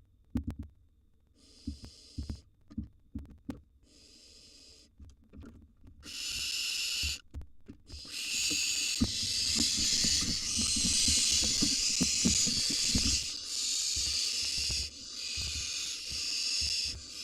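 Barn owl nestlings giving harsh, drawn-out hissing begging calls. Two short hisses come first, then from about six seconds in the hissing runs almost continuously with brief breaks. Soft low thumps from the owls shifting in the wooden nest box run under the calls.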